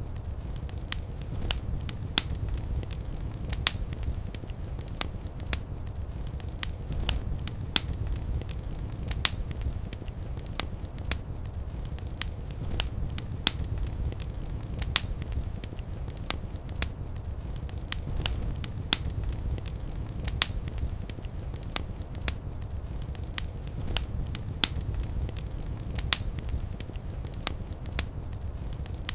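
Wood fire in a fireplace crackling, with irregular sharp pops and snaps over a low, steady rumble of flame.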